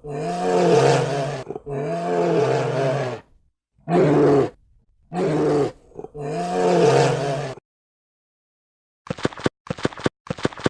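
Bear growling: five long, deep growls with short breaks between them. After a brief silence, a rapid run of short sharp clicks starts near the end.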